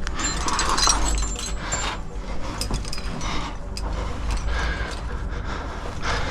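Climbing hardware (carabiners and gear on a harness) clinking and jangling in irregular short clicks, with some brief metallic rings, mixed with scraping and rustling against the rock as the climber moves.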